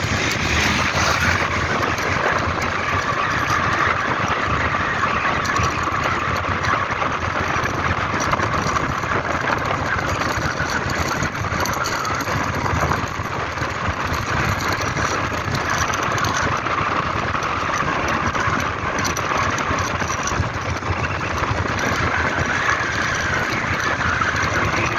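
Steady engine and road noise of a vehicle travelling along a road, a dense rushing sound with no clear changes.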